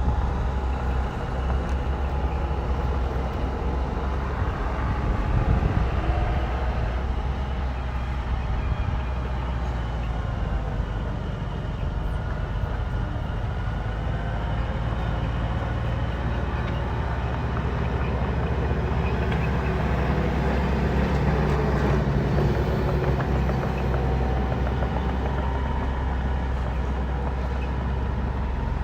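Bulldozer's diesel engine running steadily at a strong, even level.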